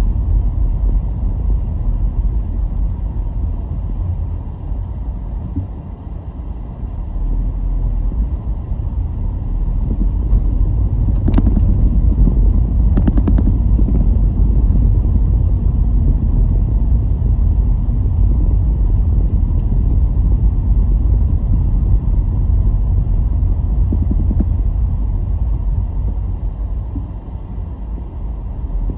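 Car on the move: a steady low rumble of road and engine noise that eases off briefly twice, with a sharp click about eleven seconds in and a short run of ticks soon after.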